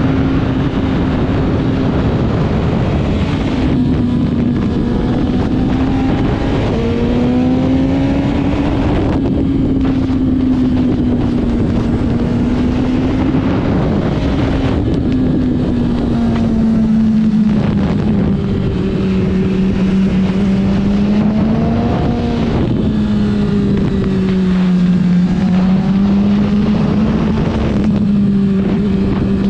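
Motorcycle engine running at a fairly steady speed, its pitch drifting gently up and down, with wind noise over the microphone.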